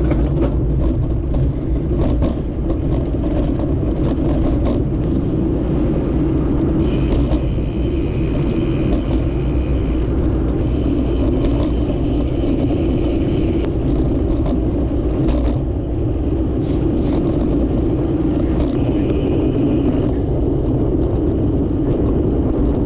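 Loud, steady rumble of wind and road noise on the microphone of a moving bike, with a faint higher whine through the middle stretch.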